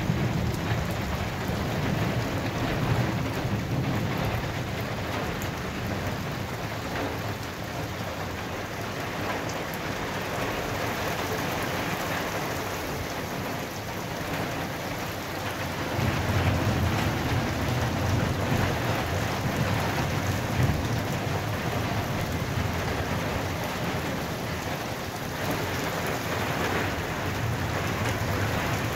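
Heavy rain pouring steadily onto a flat concrete rooftop and its puddles, a dense, even hiss. A deeper low rumble underlies it at the start and swells again about halfway through.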